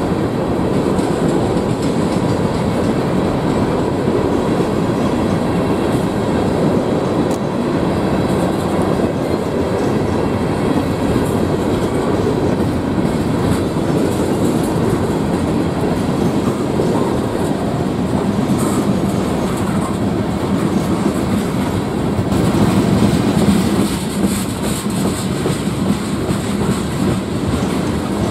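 Freight train cars rolling past: a steady, unbroken rumble of steel wheels on the rails.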